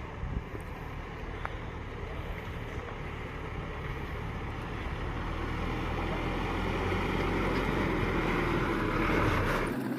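Truck engine and road noise while driving, growing slowly louder, then cutting off abruptly just before the end.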